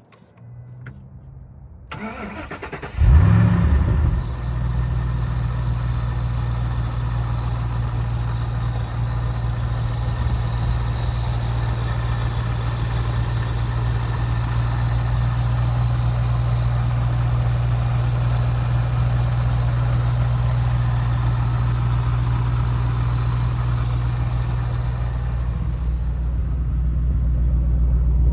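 2013 Ford Mustang Shelby GT500's 5.8-liter supercharged V8 being cranked and starting: it catches about three seconds in with a brief loud rev, then settles into a steady idle that grows slightly louder near the end.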